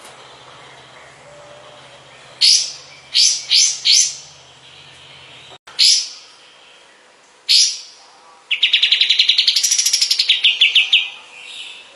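Kapas tembak bird calling: single sharp chirps that drop quickly in pitch, one, then a quick run of three, then two more spaced apart, followed near the end by a rapid trilled phrase of about eight notes a second that rises and falls over some two and a half seconds.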